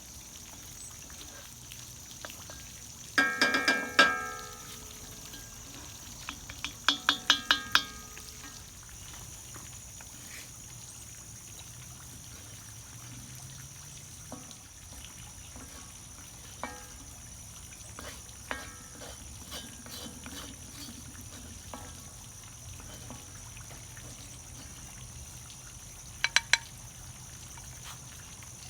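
Metal utensil clanking against cookware in three short clusters of ringing strikes, about three seconds in, around seven seconds in and a brief pair near the end, over a steady high hiss.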